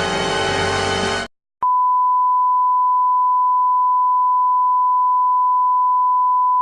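A music clip that stops abruptly about a second in, then after a brief silence a single steady, high-pitched pure beep tone held for about five seconds: the stock censor-bleep sound effect.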